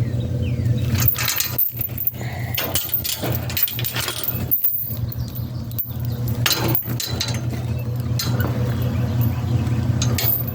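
A motor vehicle engine running steadily, with repeated sharp clinks and rattles like loose metal over it.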